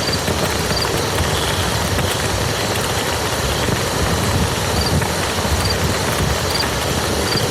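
Steady rain falling on a muddy field: a dense, unbroken patter with a low rumble underneath.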